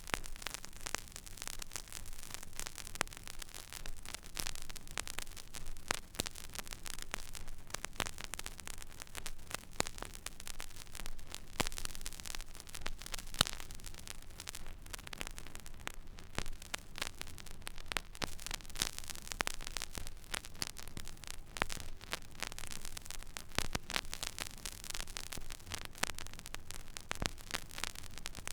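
Stylus riding an empty vinyl record groove: a steady surface hiss scattered with irregular small crackles and pops, over a low hum.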